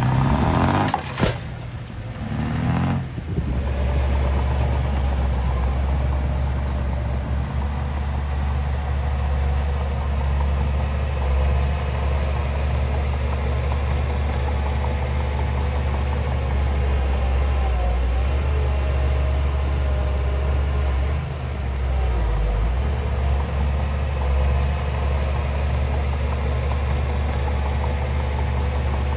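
Diesel engine of heavy earthmoving machinery running steadily with a deep drone, after a louder, shifting sound in the first three seconds or so.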